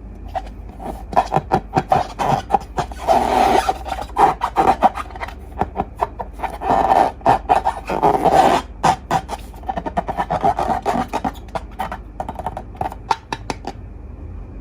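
Slime being squeezed and stretched by hand, with a dense run of sticky clicks and crackling pops that thicken into two longer crackling squelches.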